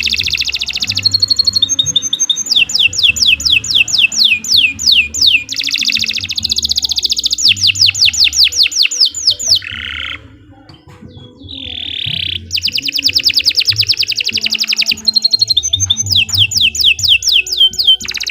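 Domestic canary singing long rolling trills of repeated downward-sweeping notes, some slow and some very fast, with a brief break about ten seconds in.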